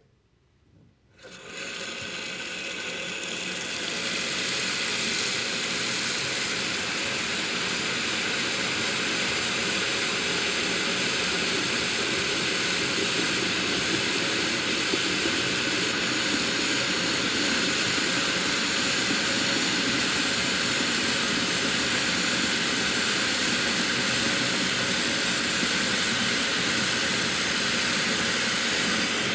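A steady engine drone that starts about a second in, builds over the next few seconds and then holds steady.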